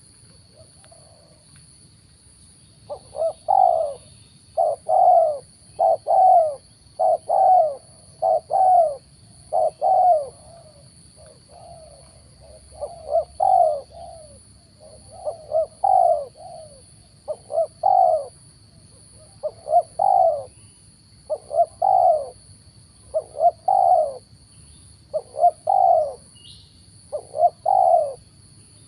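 Spotted doves cooing: repeated short phrases of a few coos each, beginning about three seconds in and coming every second or two, over a faint steady high-pitched tone.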